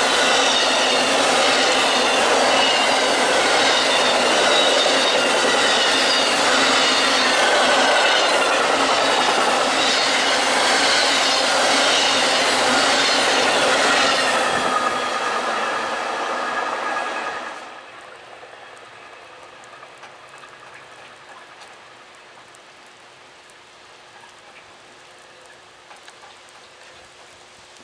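Amtrak Auto Train autorack cars rolling past at speed: steady wheel-on-rail noise with thin, wavering squeals from the wheels. It fades as the last car goes by, then cuts off sharply about two-thirds of the way through to a faint steady hiss.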